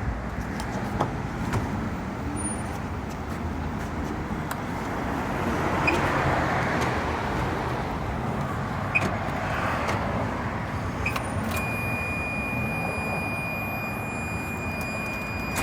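Ferrari 430's brake booster letting out air hisses as the brake pedal is pressed, twice, over a steady low rumble: the normal puff of air these Ferraris make under braking, not a fault. A thin steady high tone starts about three-quarters of the way in.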